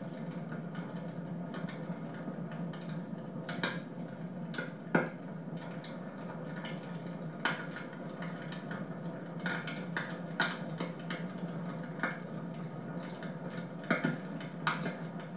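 Wood fire in a fireplace crackling, with irregular sharp pops every second or two over a steady low hum.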